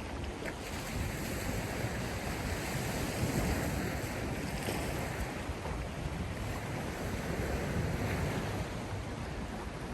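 Sea waves surging and washing ashore in a continuous wash of surf, swelling and easing every few seconds, with wind blowing over the microphone.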